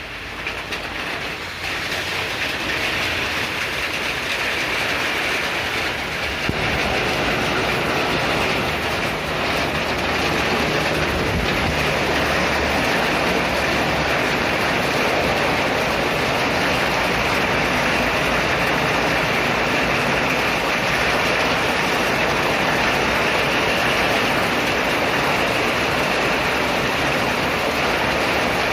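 Heavy rain pouring down in a steady rush, growing heavier about two seconds in and again about six seconds in, then holding steady.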